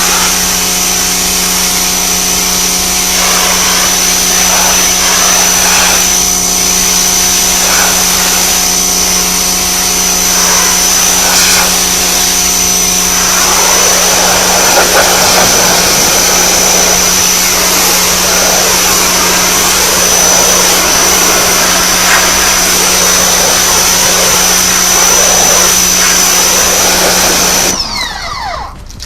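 Greenworks 1500 PSI electric pressure washer running and spraying, with a steady hum and a high whine over the hiss of the water jet. About a second before the end it is switched off, and the motor winds down quickly.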